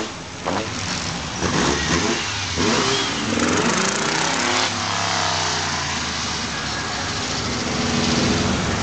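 Beach buggy engines as several buggies drive past one after another, the engine note rising and falling as each one goes by.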